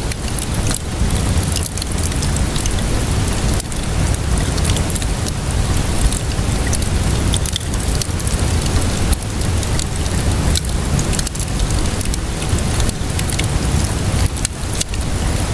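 Steady rainfall with a wood fire crackling through it, sharp pops and snaps scattered irregularly over the hiss.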